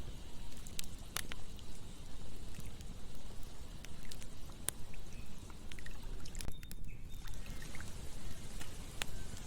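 Campfire crackling with scattered sharp pops over a steady rush of flowing water, with a faint steady insect chirring and a few short chirps near the end.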